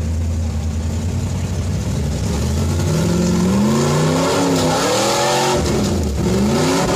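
Engine of a modified four-wheel drive running at steady low revs while crawling up a steep muddy slope. From about two and a half seconds in it revs up and down repeatedly under load.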